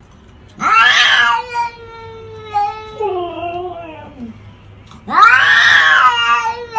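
Domestic cat yowling: two loud, long drawn-out yowls, one starting about half a second in and one near the end, with a softer falling call between them.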